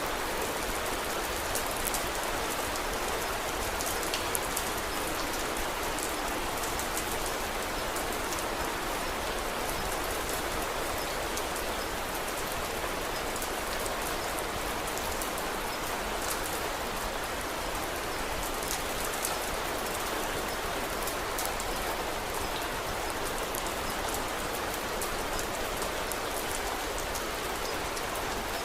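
Steady rain falling, with many small, sharp ticks scattered through it.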